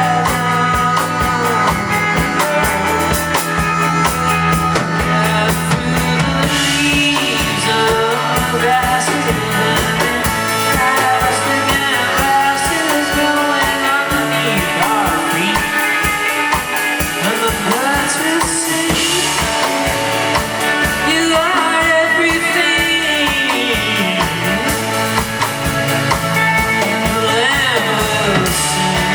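Live rock band performing a song: a drum kit keeps a steady beat under guitars, with a singing voice.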